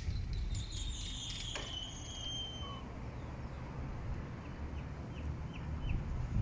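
Birds calling over a low, unsteady outdoor rumble. A high whistled call runs from about half a second in to nearly three seconds, and four short, falling chirps come later.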